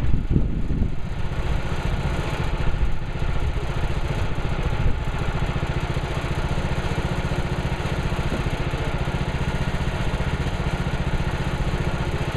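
Petrol engine of a Woodland Mills HM130 Max band sawmill running steadily, with a few knocks in the first second.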